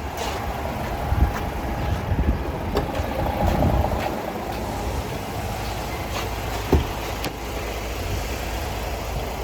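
DAF CF 480 truck's diesel engine idling steadily, with a few short knocks over it.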